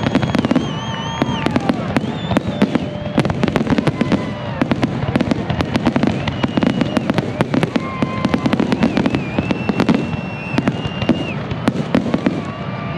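Fireworks finale: a dense, continuous barrage of rapid cracks and bangs over a low rumble. High whistling tones glide and warble above it.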